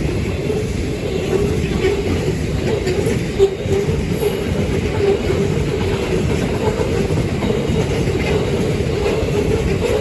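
Train of grain hopper wagons rolling past, a steady rumble of wheels on the rails.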